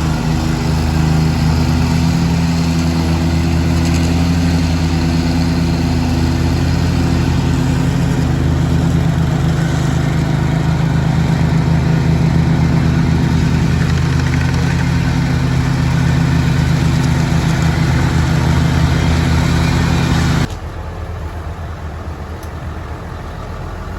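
An engine running steadily, with its hum dropping away abruptly about twenty seconds in, leaving quieter background noise.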